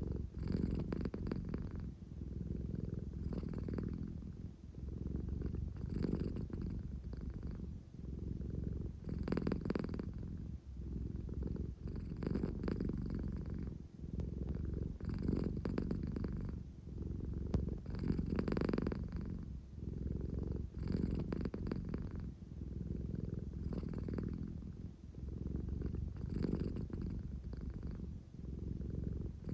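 American Shorthair cat purring, a low rough hum that swells and eases with each breath, roughly every two to three seconds.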